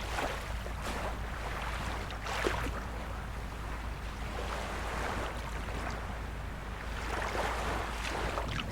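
Small waves of a calm sea washing in and out, a steady hiss with a soft swell every second or two, over a steady low rumble.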